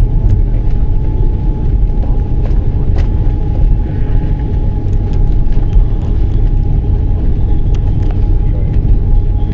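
Steady low rumble inside the cabin of an Airbus A330-300 rolling on the ground after landing, with a thin steady whine and a few faint ticks.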